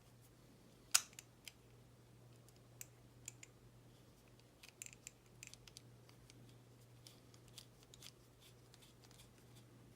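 Light clicks and taps of small model-kit parts and a screwdriver being handled while parts are screwed together, with one sharper click about a second in and a run of faint clicks through the middle, over a steady low hum.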